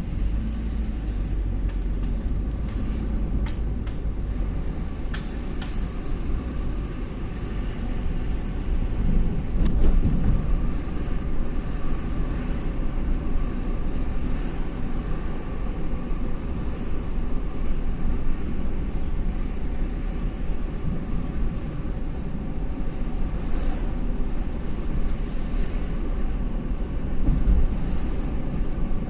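Steady car engine and road noise of a vehicle in motion, with a few sharp clicks in the first several seconds.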